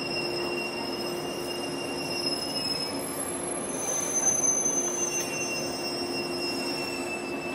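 Shinano Railway Series 115 electric train squealing as it rolls slowly into the station platform, heard from inside the car. Several steady high-pitched squeal tones shift and briefly grow louder about four seconds in, over a steady low hum and rumbling running noise.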